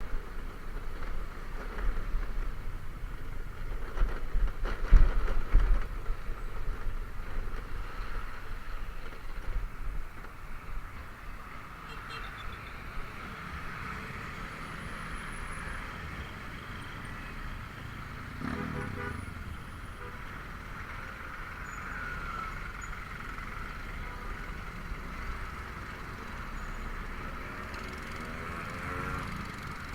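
Honda Vario 125 scooter's single-cylinder engine and drive running at road speed, with road and traffic noise. Heavy low wind rumble on the microphone through the first ten seconds, and another vehicle passing about two-thirds of the way in.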